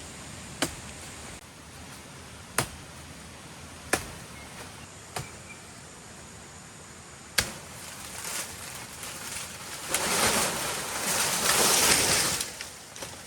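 Five sharp blows of a hand tool, spaced one to two seconds apart, as in chopping. Near the end comes a loud rushing noise lasting about two and a half seconds.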